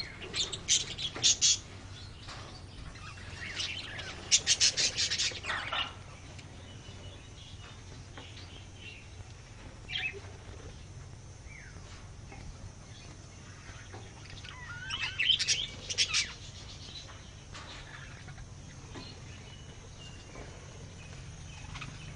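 Birds chirping in short clusters of rapid, high notes, four or five times, with quieter gaps between, over a faint steady low hum.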